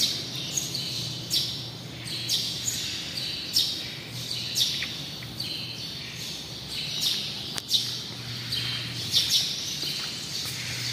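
Small birds chirping: many short, high chirps, one after another every half second or so, with one sharp click about three quarters of the way through.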